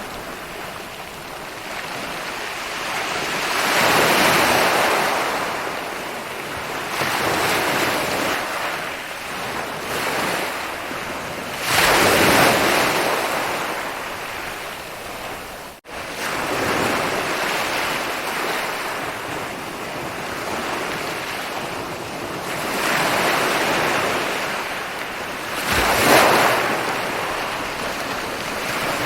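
Ocean waves breaking and washing up a beach, surging and receding every few seconds, with a momentary break in the sound just past halfway.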